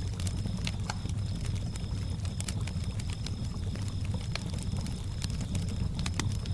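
Campfire crackling with irregular sharp pops over a steady low rumble, with crickets chirping in high, even trills that start and stop.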